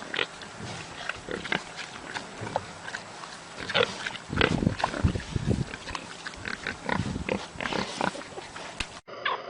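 Animal making many short, irregular calls, thickest around the middle and stopping about 9 seconds in.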